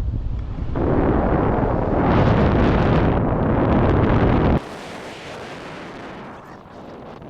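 Loud rumbling wind noise buffeting the microphone, cutting off suddenly about four and a half seconds in and leaving a much quieter hiss.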